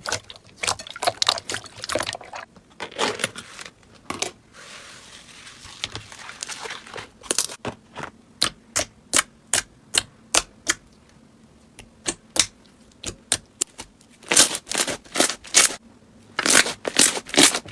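Slime being squeezed and poked, giving irregular sharp clicks and pops, with a softer hissing stretch a few seconds in and quicker runs of pops near the end.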